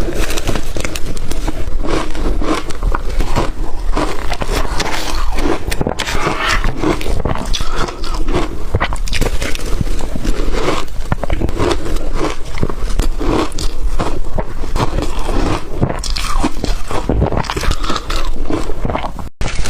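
Close-up biting and crunching of blender-crushed ice, a dense run of crackles as the ice breaks between the teeth. The sound drops out for a moment just before the end.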